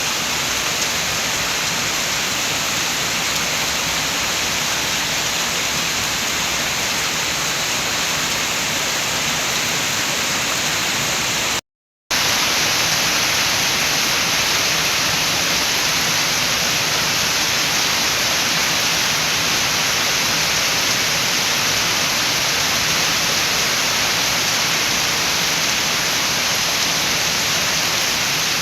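Steady rain with wind, a dense, even hiss with no single drops standing out. About twelve seconds in, it cuts out to silence for a fraction of a second, then comes back slightly brighter.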